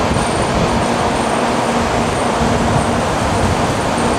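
A Tokaido Shinkansen train passing through the station at reduced speed: a loud, steady rushing noise with a faint steady hum underneath.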